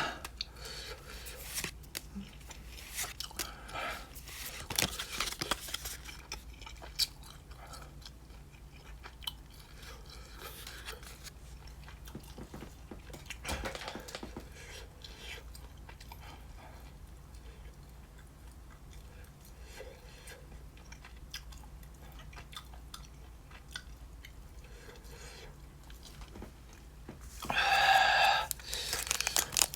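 Close-up chewing of beef jerky: quiet, irregular mouth and chewing sounds with small clicks throughout. A short voiced sound comes near the end.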